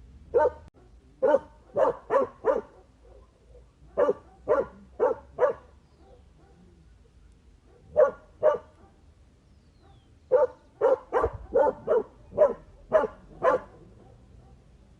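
A dog barking in repeated bouts of short, sharp barks: a run of about five, then four, then two, then a longer run of about eight.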